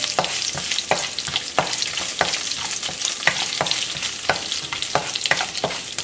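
Sliced garlic and ginger frying in hot coconut oil with mustard and fenugreek seeds, a steady sizzle, stirred with a wooden spatula that scrapes the nonstick pan and gives frequent light clicks.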